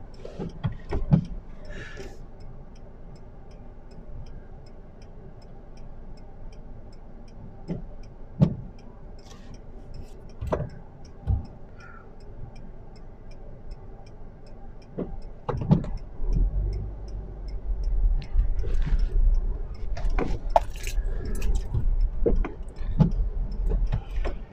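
Car cabin while stopped with the engine idling and a faint, regular indicator ticking about twice a second. About two-thirds of the way in, a louder low rumble builds as the car pulls away over the snowy road, with scattered knocks and rattles.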